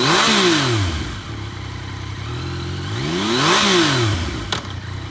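2017 Yamaha FZ-09's three-cylinder engine idling and revved twice, once at the start and again about three and a half seconds in, each time rising quickly and dropping back to idle. A single sharp click comes near the end.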